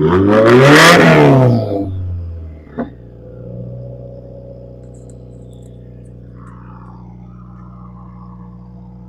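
2015 Subaru WRX's FA20DIT turbocharged flat-four, through a turbo-back exhaust with a catted J-pipe, mid-pipe and custom axle-back, blipped once: the pitch climbs quickly for about a second and falls back. A single sharp crack comes as the revs drop, and then the engine settles into a steady idle.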